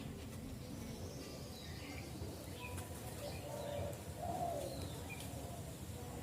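Dove cooing, several low calls a second or so apart, with small birds chirping faintly.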